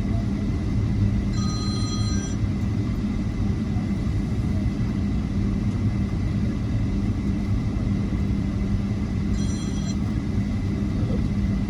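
Airliner cabin noise while taxiing: the steady low rumble of the jet engines and airframe. Two brief high electronic rings cut through it, about a second and a half in and again near the end.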